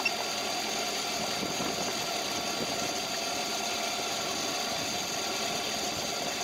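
Car engine idling steadily under the open hood, with one very short high blip right at the start.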